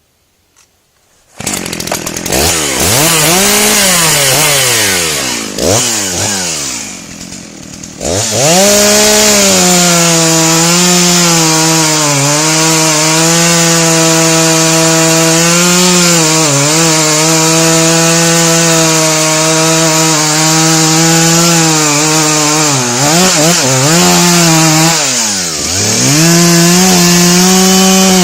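A chainsaw's two-stroke engine starts up abruptly about a second in and revs up and down. It then runs at a steady high pitch while sawing through wood, dipping briefly now and then as the chain takes load. Near the end it drops sharply and revs back up.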